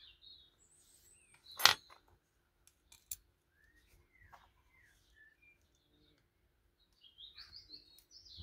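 Birds chirping and singing in the background, with a louder burst of song near the end. A sharp metal clink about two seconds in and a few lighter clicks come from small metal brackets being handled and fitted together.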